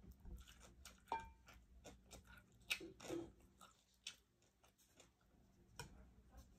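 Faint close-up eating sounds: chewing with a scatter of small mouth clicks and smacks, while fingers pick apart grilled chicken inasal.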